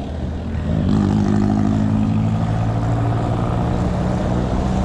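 A motor vehicle's engine running steadily close by in traffic, heard over low wind rumble on the microphone of a moving bicycle.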